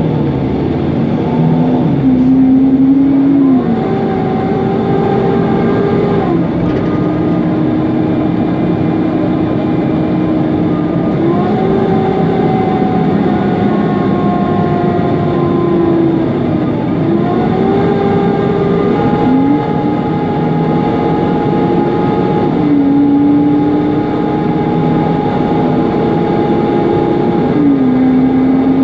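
Mercedes-Benz Conecto CNG city bus heard from inside while under way: the running engine and its loud cooling fan drone, with a whining tone that steps up and down in pitch every few seconds as the bus speeds up and slows.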